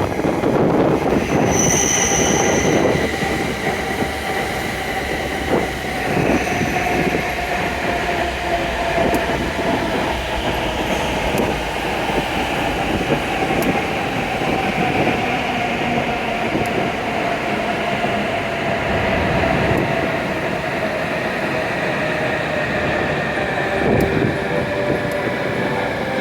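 An E7-series Hokuriku Shinkansen train pulling in and slowing to a stop, its electric motor whine falling slowly in pitch as it brakes, over steady wheel and rail rumble. A sharp knock comes near the end.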